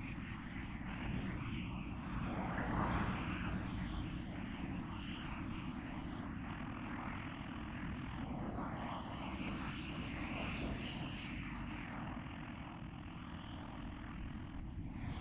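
Steady low rumble of vehicles in motion, even throughout with no distinct events.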